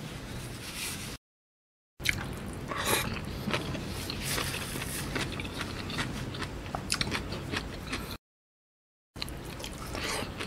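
Close-up wet chewing of a mouthful of rice in coconut-milk curry gravy, with many small mouth clicks and smacks. The audio cuts out completely twice for about a second.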